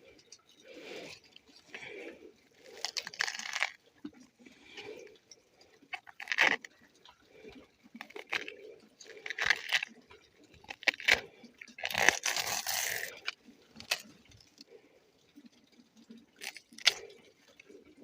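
Banana tree trunk being cut and peeled by hand, a series of irregular crunches, the loudest about twelve seconds in.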